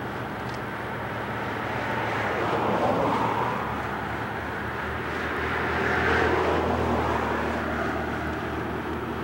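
Street traffic: vehicles passing, swelling twice, about three and six seconds in, with a low engine hum coming in around the middle.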